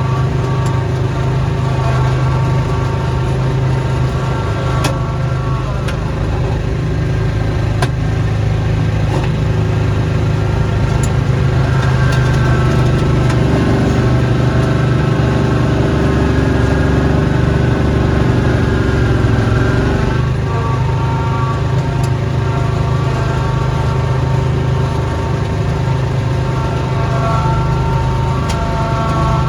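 Small engine of a snowblowing machine running steadily throughout. A higher whine rides over it, fading in and out and sliding up and down in pitch several times.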